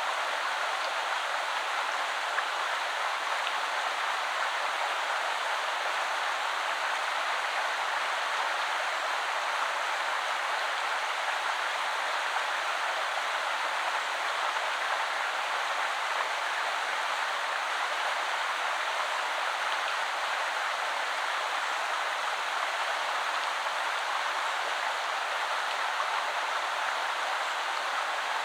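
A woodland river flowing: a steady, even rush of running water that does not change.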